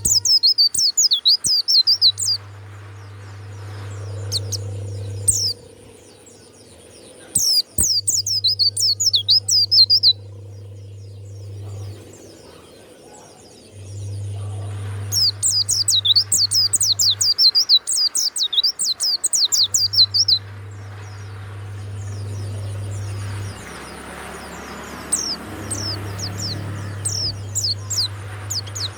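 White-eye (pleci) singing in fast, high-pitched twittering bouts of a few seconds each, four times, with pauses between them. A low hum starts and stops underneath.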